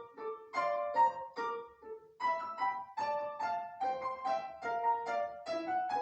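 Solo piano played by a child: detached single notes, a few per second, each decaying quickly, with a short break about two seconds in.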